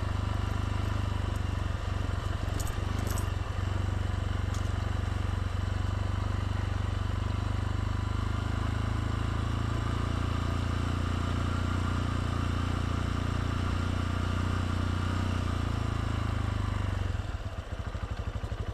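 Motorbike engine running steadily under way, then dropping to an evenly pulsing idle near the end as it slows to a stop.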